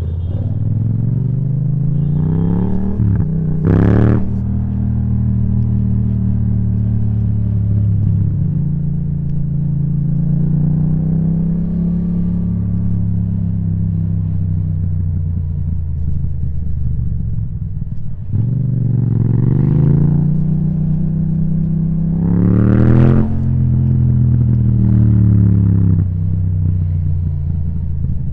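Yamaha MT-07's parallel-twin engine through an Akrapovic titanium exhaust, ridden in traffic. The revs climb to a sharp peak early on, run steady, dip, then climb to a second peak about two-thirds through before easing off.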